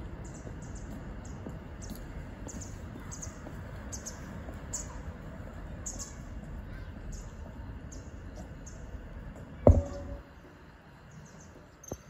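A rapid series of short, high chirps, about two or three a second, over a steady low rumble. A little before the end there is one loud thump of the phone being knocked, after which the rumble drops.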